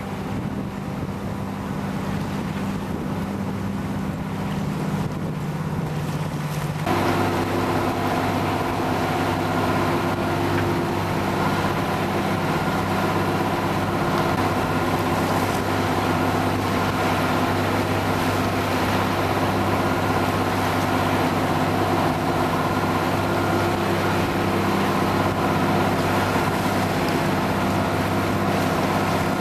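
Motorboat engine running steadily, with wind and water noise. About seven seconds in its note changes abruptly to a louder, fuller steady drone that holds from then on.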